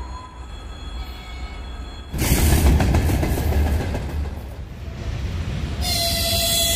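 Train on the rails: a low rumble, then about two seconds in the loud rush and rumble of a passing train starts suddenly and slowly eases, and near the end a second surge of running noise comes in with a thin high ringing over it.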